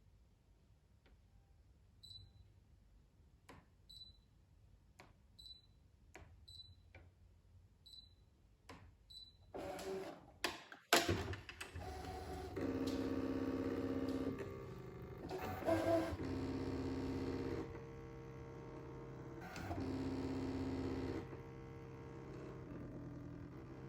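Brother ScanNCut SDX1500 cutting machine: first a series of taps, each followed by a short high beep, then its motors start, humming in spells of about a second and a half with short breaks between them.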